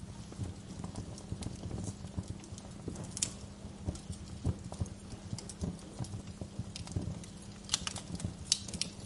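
Wood fire crackling in a fireplace: irregular pops and snaps over a low rumble, with a cluster of louder, sharper snaps near the end.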